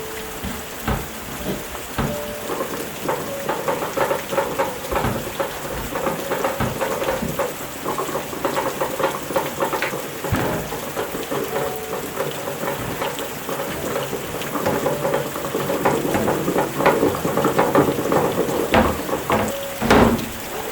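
Rain pattering steadily, with many sharp clicks and knocks throughout and a few louder ones near the end.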